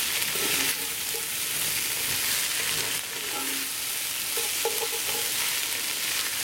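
Quartered potatoes, onions and bacon sizzling in a hot cast-iron Dutch oven as they brown, stirred with a wooden spoon.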